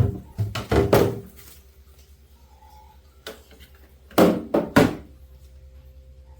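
Plastic refrigerator vegetable crisper drawer knocking and thudding as it is handled and pulled out: several knocks in the first second, then three sharper knocks about four seconds in, over a low steady hum.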